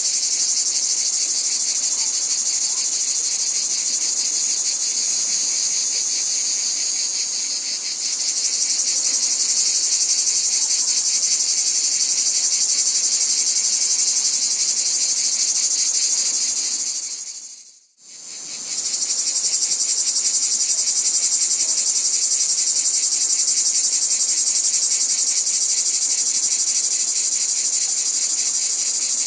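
Dense chorus of crickets trilling steadily, high-pitched with a fast, even pulse. About eighteen seconds in it fades out to near silence for a moment, then fades back in.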